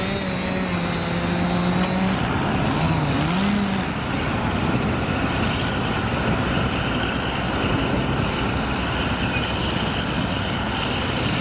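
Heavy truck engines running steadily. One engine's pitch dips and comes back up about three seconds in.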